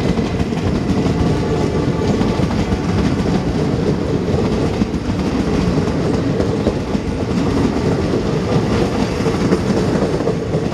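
Passenger coaches of an Indian Railways express train running past at speed, a steady loud rumble of wheels on the track.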